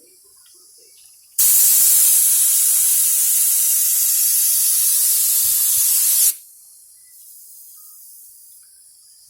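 Air-fed spray gun hissing through one continuous pass of about five seconds while a coating is sprayed onto a car bumper. It starts sharply about a second and a half in and cuts off suddenly past the middle.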